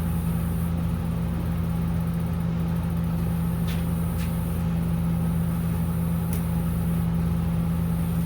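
Steady low mechanical hum running without change, with a couple of faint light clicks about four seconds in.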